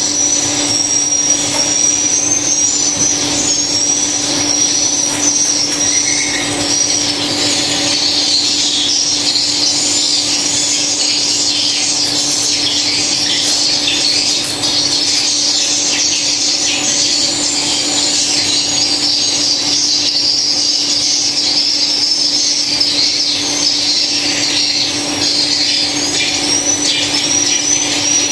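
Dense, continuous high chirping and twittering of swiftlets, with a steady low hum underneath.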